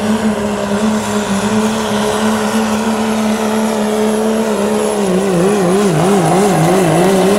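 Diesel pickup truck's turbocharged engine running flat out under load while pulling a sled, a steady high-rpm drone with a thin high whine above it. From about five seconds in, the pitch wobbles rapidly up and down as the engine speed surges.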